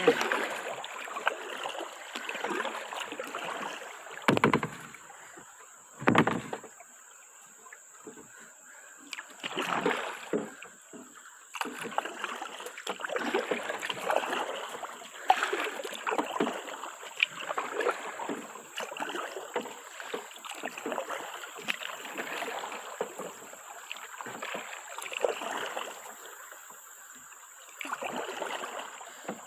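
Kayak paddle strokes dipping and splashing in river water, one after another in an uneven rhythm, with two louder splashes about four and six seconds in.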